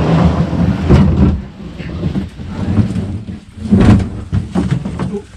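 Plastic kayak hull scraping and bumping against rock and being handled as it is lowered on a rope, with uneven rumbling surges about a second in and again near the end.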